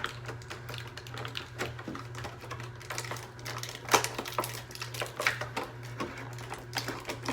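Action figure packaging being opened by hand: irregular clicks and crinkles of handling, with a sharper snap about four seconds in, over a steady low hum.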